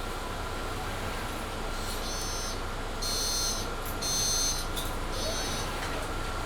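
Steady cabin hum inside a Mercedes-Benz Citaro C2 G articulated bus, with a constant tone that fits the loud heater. About two seconds in come four short, high-pitched electronic beeps, each roughly half a second long and about a second apart.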